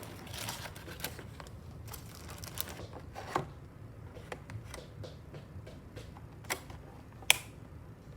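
Irregular light clicks and taps, a dozen or so, with a sharper, louder click about seven seconds in, over a low steady hum.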